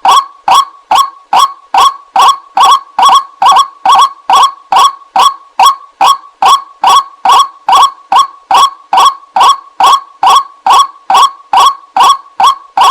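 White-breasted waterhen (ruak-ruak) lure call: a short, loud call repeated over and over at an even pace, a little over two calls a second.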